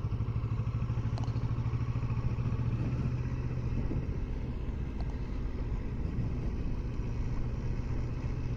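2020 Kawasaki Versys 650's parallel-twin engine running steadily with a low, even pulsing beat.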